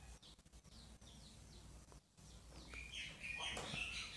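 Birds chirping faintly in the background: repeated short, falling high chirps that grow busier in the second half, with the sound dropping out for a moment about two seconds in.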